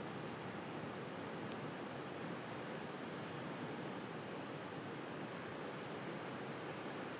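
Steady wash of the sea with a few faint crackles from a wood bonfire, the sharpest pop about a second and a half in.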